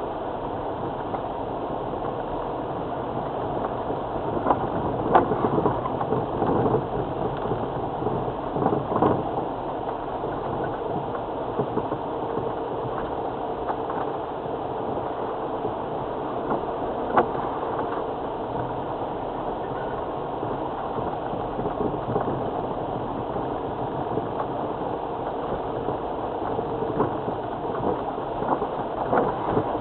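Land Rover Freelander TD4's four-cylinder diesel engine running steadily at low speed on a rough off-road track, with occasional knocks and rattles from the vehicle over the uneven ground.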